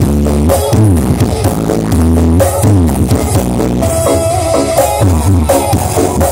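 Loud electronic dance music played through a large horeg sound system, with heavy bass and repeated falling-pitch sweeps.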